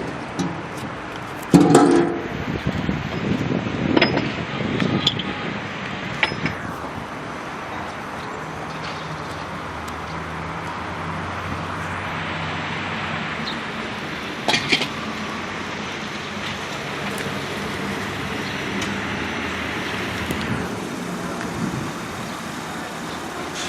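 A steady vehicle engine hum with road noise that swells and fades through the middle, broken by a few sharp clicks and knocks.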